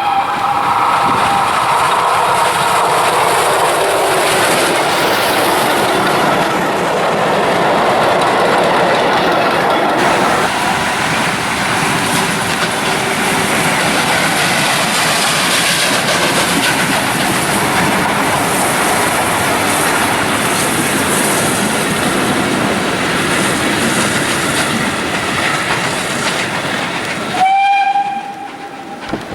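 Steam train running at speed, its wheels clattering steadily on the rails, with the locomotive's whistle dying away in the first second. Near the end comes a short whistle blast, and the running noise drops off sharply.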